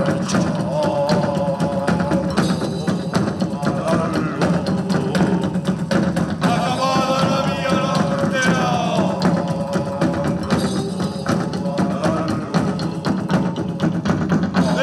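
Live band music: a quick, steady percussion rhythm with a melody over it.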